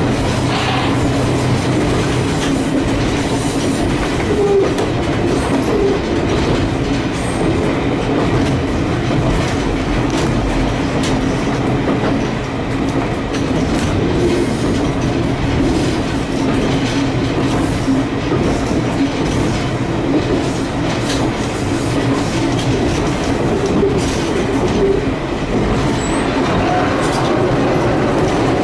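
A diesel railcar running along single track, heard from inside its driver's cab. A steady engine drone blends with the rumble of the wheels on the rails and scattered clicks from rail joints.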